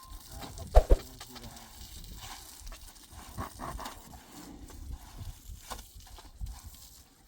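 Two quick knocks close together about a second in, followed by faint scattered outdoor sounds.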